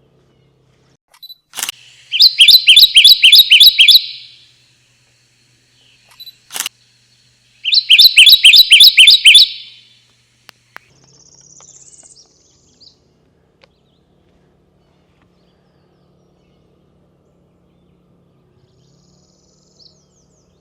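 Bird song used as a call to draw warblers closer: a phrase of about eight rapid, evenly repeated chirping notes, sounding twice about six seconds apart, each time just after a sharp click. A fainter high bird call comes a few seconds after the second phrase.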